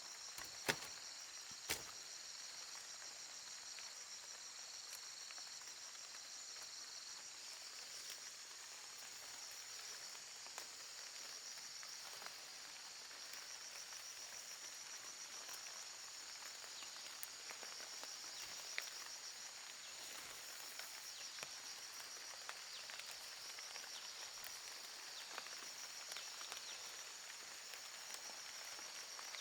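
Insects chirring steadily in a high, finely pulsing drone, with two sharp clicks about a second in and light ticks scattered through.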